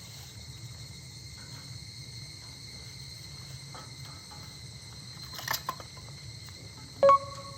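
Steady chirring of insects such as crickets, with a short run of crackles from a wood fire about five and a half seconds in. Near the end a single loud chime-like note rings briefly.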